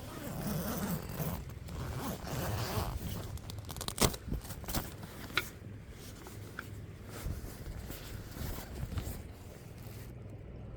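A zip pulled in short rasping runs, followed by handling noise with one sharp click about four seconds in and a few lighter ticks.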